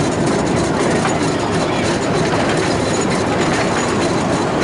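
Miniature railway train running along narrow-gauge track, heard on board: a steady, even running noise of the carriage wheels on the rails.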